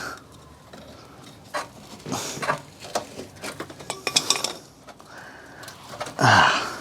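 Metal tools clinking and clattering against each other as a screwdriver is picked out, in a run of separate clinks, with one louder knock near the end.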